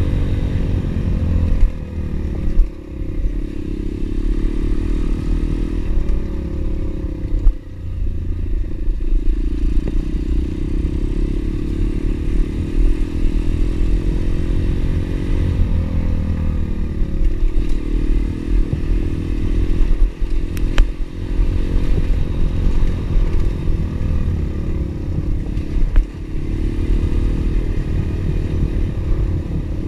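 Pit bike engine running while riding, its note rising and falling with the throttle and dropping briefly about two and a half and seven and a half seconds in. Occasional knocks and rattles come from the bike.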